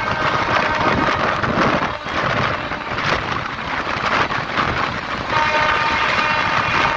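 Running noise of a moving express train heard from its open doorway: wheels rumbling on the rails with rushing wind and occasional clacks. A faint steady whine joins about five seconds in.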